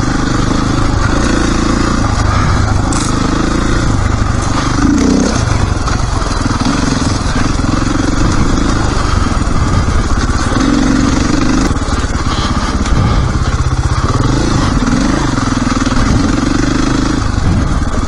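Dirt bike engine running while riding a trail, the revs rising and falling with the throttle.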